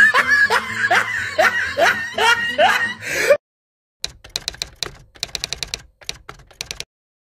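A voice making short rising cries about twice a second over a low backing, cut off sharply a little past three seconds in. After a short gap comes a rapid run of sharp clicks, several a second, in two bursts.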